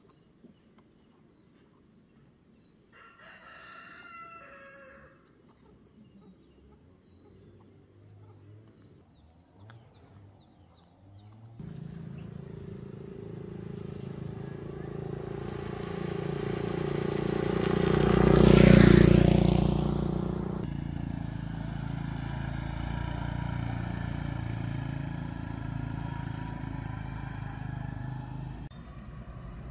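A rooster crows once, about three seconds in. From about the middle a motor vehicle comes up, grows louder and passes close about two-thirds through, dropping in pitch as it goes by, then runs on steadily until near the end.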